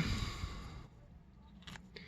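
A man's drawn-out voice trailing off into a breathy exhale, then a few faint plastic clicks near the end as the action figure is handled.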